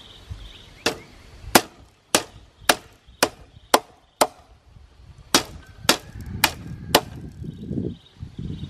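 A hand tool striking wood in sharp, evenly spaced blows, about two a second: seven strikes, a short pause, then four more.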